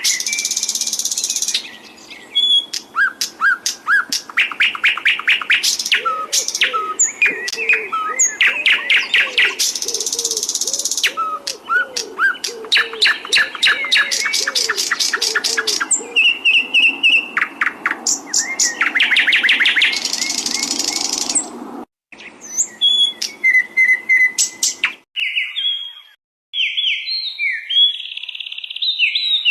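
Songbirds singing: fast trills of rapidly repeated notes mixed with chirps and short whistles. The recording cuts out briefly twice in the last third, and a different song of short clear notes follows.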